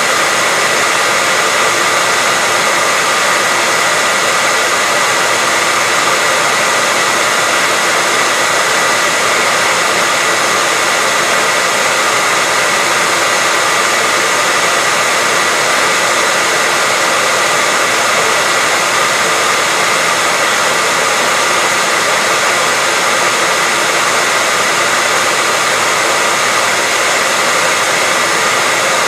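Hair dryer blowing steadily, a constant rushing air noise with a faint high motor whine.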